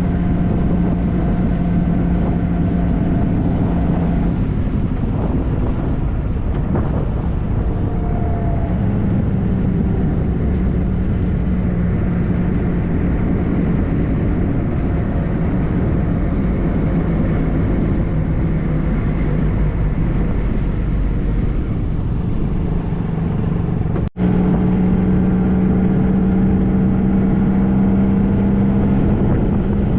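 2013 Triumph Trophy SE's inline three-cylinder engine running at steady cruising revs under a heavy rush of wind, its pitch shifting slightly as the speed changes. The sound drops out for an instant about three-quarters of the way through, and afterwards the engine note is a little higher and stronger.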